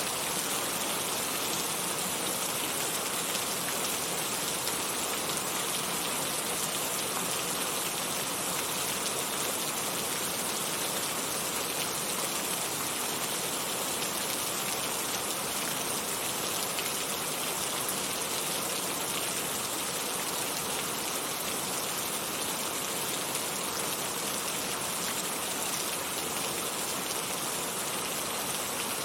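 Heavy rain falling steadily: a dense, even hiss of drops with no let-up or single louder event.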